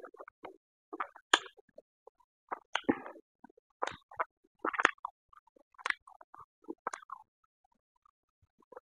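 Close-miked chewing and lip-smacking of a mouthful of pork and rice, in short wet smacks roughly once a second.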